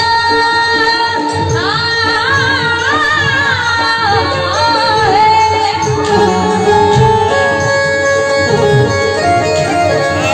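A woman singing a song line in long, wavering, ornamented notes over instruments holding steady notes.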